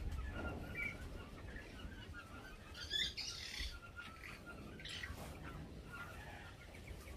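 Faint, short bird chirps repeating, with a rustle of handling about three seconds in.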